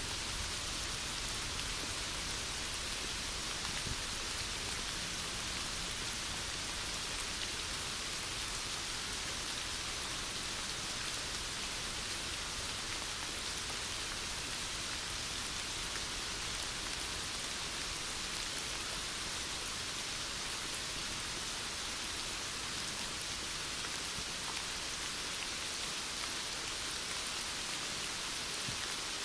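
Heavy rain falling steadily, a constant hiss and patter of drops on surfaces.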